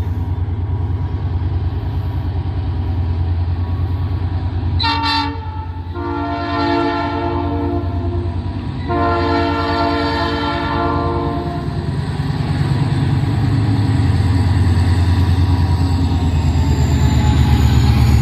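EMD GT22CW diesel locomotive's EMD 645 engine running with a rapid pulsing beat, growing louder toward the end. Its multi-tone air horn gives one short blast about five seconds in, then two long blasts.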